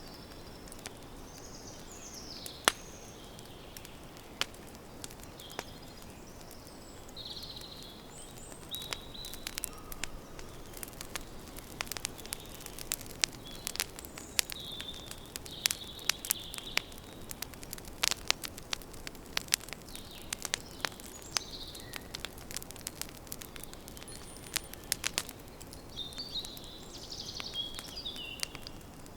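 Wood campfire crackling, with many sharp pops and snaps that come thickest through the middle. Small birds chirp and twitter in short bursts now and then.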